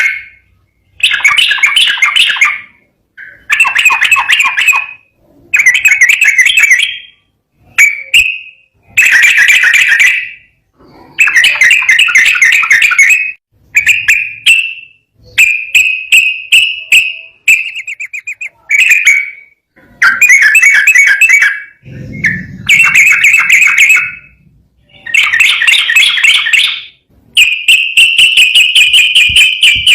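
Trucukan (yellow-vented bulbul) singing loud phrases of rapid, rolling chattered notes, each lasting one to two seconds with short pauses between. Near the end the song runs into one long unbroken trill.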